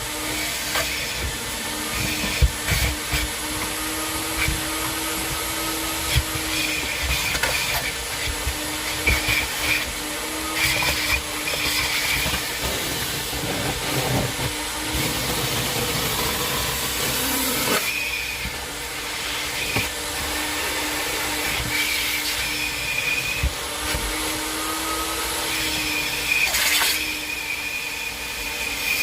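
A vacuum cleaner running steadily with a constant motor hum as it is worked over a car's interior, with scattered knocks and rattles from the nozzle and loose debris.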